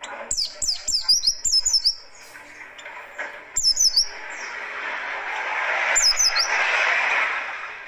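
White-eye (pleci) singing a harsh, rapid song: quick bursts of sharp, high, downward-sliding chirps, several in the first two seconds, again at about three and a half seconds and at six seconds. A rushing noise swells through the second half and fades near the end.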